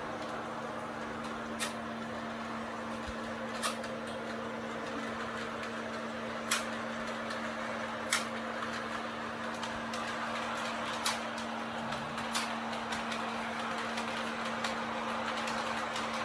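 Lionel O gauge toy train running on its track: a steady electric hum and rolling rattle, with a sharp click every second or few.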